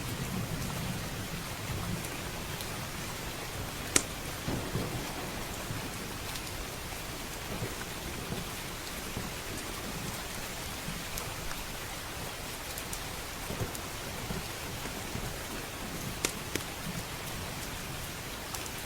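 Steady rain with a low thunder rumble fading out in the first second or two. A few sharp crackles from a wood fire in the fireplace sound over it, the loudest about four seconds in.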